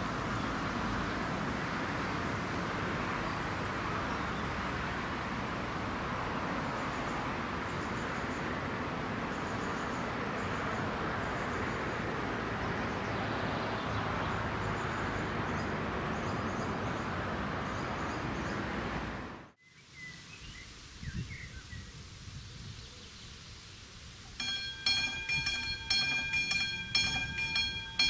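A loud, steady rushing rumble, plausibly a train running over the line, cuts off suddenly about two-thirds of the way in. A few seconds before the end, a level crossing's electronic warning bell starts ringing in a steady repeating pattern.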